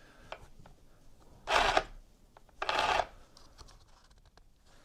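Two short scraping rasps about a second apart, from handling a battery chainsaw as its bar and chain are refitted and the chain tension set.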